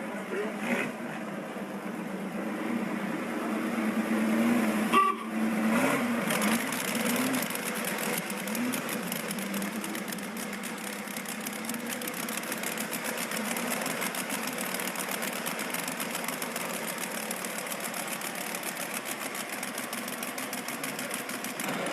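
Motorcycle engine running with a fast, even rattle. It grows louder about four seconds in and cuts out for a moment about five seconds in.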